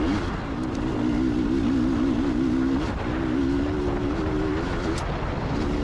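Two-stroke dirt bike engine, a KTM 300 XCW with an FMF Turbine Core silencer, riding a trail with the throttle working constantly, its note rising and falling quickly over and over. Wind rumbles on the microphone underneath.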